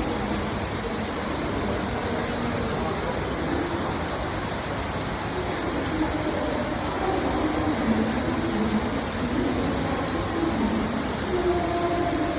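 Steady rush of a large indoor waterfall pouring down, with the faint chatter of people's voices beneath it.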